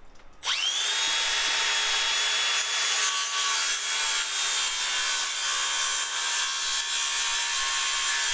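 Electric power saw spinning up with a rising whine about half a second in, then running steadily as its blade cuts through a 2x3 stud for a storage-unit rung.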